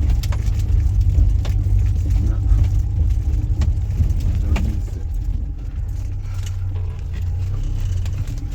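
Steady low rumble of a vehicle driving, heard from inside, with scattered light rattles and clicks.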